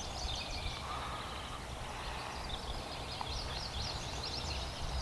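Small birds chirping, many short high notes repeated one after another, over a low steady rumble.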